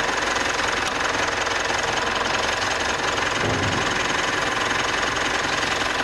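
Mitsubishi Triton engine idling steadily, kept running so the automatic transmission's fluid level can be checked and topped up at the check plug.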